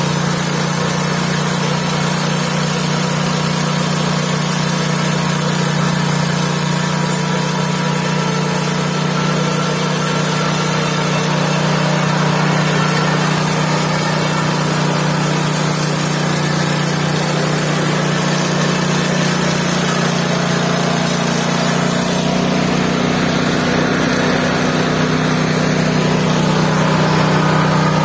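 Engine-driven mobile band sawmill running steadily, a continuous machine drone. About three-quarters of the way through, a high hiss drops away while the engine drone carries on.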